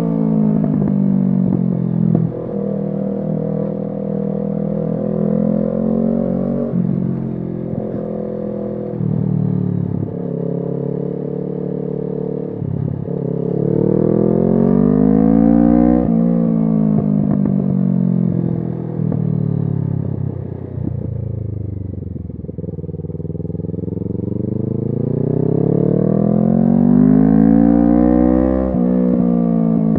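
Kawasaki Z650's parallel-twin engine through an SC Project exhaust, pulling up through the revs and dropping back again and again as the bike accelerates through the gears. It winds down in the middle, then climbs once more near the end.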